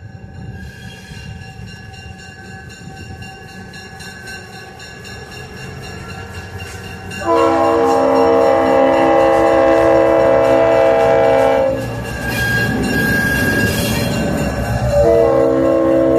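Locomotive horn sounding a long blast of several notes at once, then after a short gap a second blast, over the rising rumble of the approaching train.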